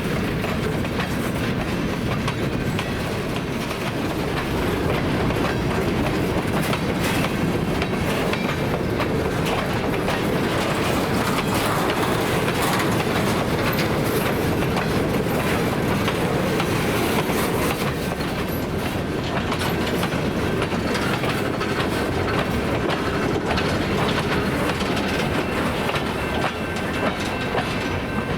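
A long string of empty coal hopper cars rolling past on a freight train, the wheels clacking steadily over the rail joints with a continuous rumble.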